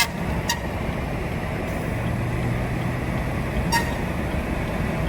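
Vehicle engine running steadily at a crawl, a low rumble, with three sharp clicks: one at the start, one half a second later and one near the end.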